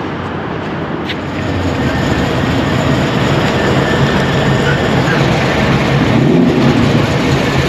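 Loud car engine running with a low steady note, growing louder from about a second in.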